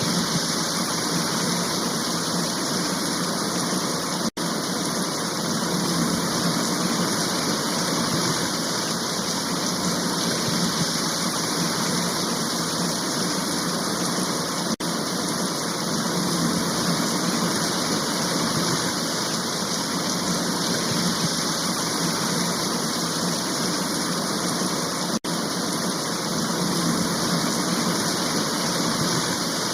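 A heavy rain shower falling as a steady, even hiss. It cuts out three times for an instant, about ten seconds apart.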